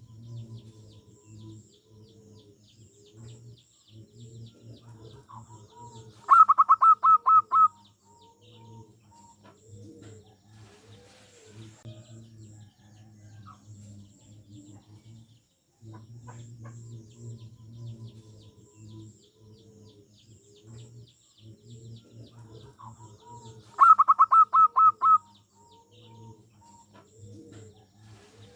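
Zebra dove (perkutut) singing: a loud burst of about seven quick, rhythmic cooing notes, heard twice about seventeen seconds apart, over a continuous low, softer cooing and faint high chirps in the background.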